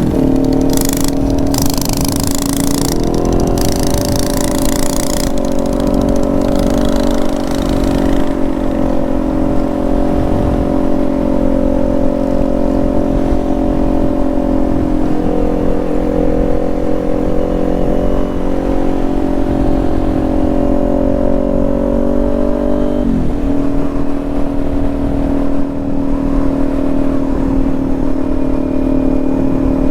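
Motorcycle engine running steadily at a held cruising speed, with gusts of wind rush on the microphone in the first eight seconds or so. Its pitch dips briefly about two-thirds of the way through, then settles again.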